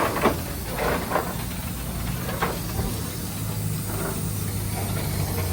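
Steam locomotive 1309 standing with steam up: a steady hiss of steam over a low, even hum.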